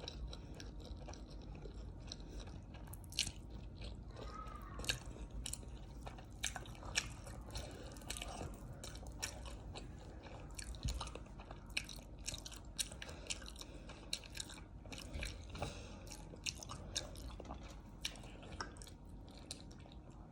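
Eating sounds: a person chewing, with many short, sharp crunches at an irregular pace.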